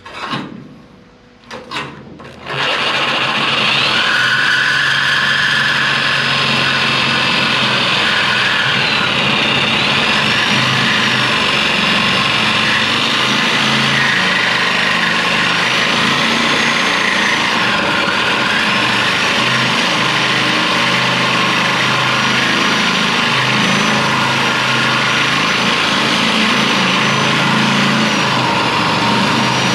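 A corded reciprocating saw (Sawzall) running steadily and cutting through the car body's sheet metal to free the old door hinge tree, its motor whine wavering under load. A few sharp knocks come first, and the saw starts about two seconds in.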